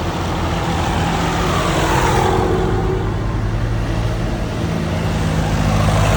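Tractor engines running steadily on a road as vehicles drive past, with a falling pitch as one passes about two seconds in.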